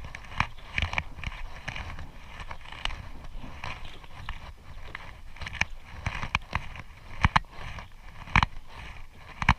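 Irregular light knocks and splashes on a small boat at sea.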